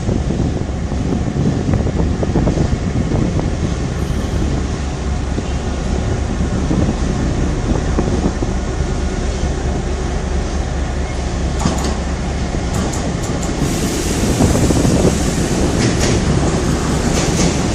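Empty coal freight wagons rolling along the track: a steady rumble with clicks and clatter from the wheels. A high hiss comes in about two thirds of the way through.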